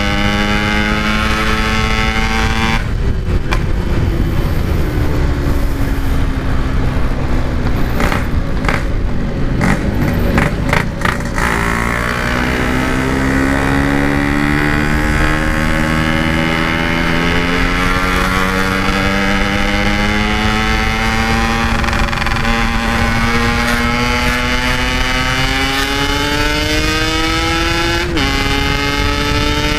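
Yamaha RX-King's two-stroke single-cylinder engine running through its aftermarket Packing Power exhaust as the bike is ridden hard. The note holds high, drops off about three seconds in, then rises steadily in pitch for a long pull through one gear, dips sharply at a gear change near the end and climbs again.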